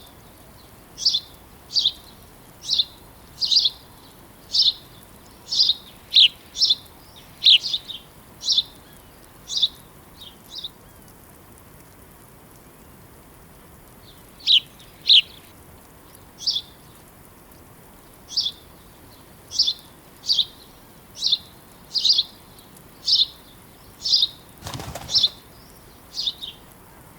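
A small bird chirping repeatedly, short high calls about once a second, pausing for a few seconds midway before starting again. A brief rustle sounds near the end, over a soft steady hiss.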